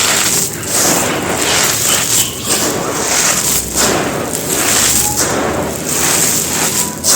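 Chunks of dried bajri (coarse sand and gravel) cement material being crushed and crumbled: a dense run of loud, gritty crunches that swell and fade every half second or so.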